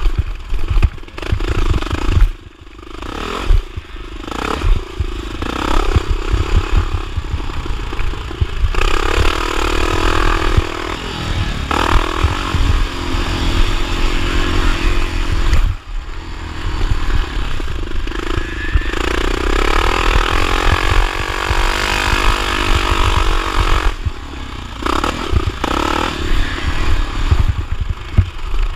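1979 Honda XR500's single-cylinder four-stroke engine ridden hard, its revs rising and falling through long pulls, with rattling and low thumps underneath; the revs drop briefly about two and a half and sixteen seconds in.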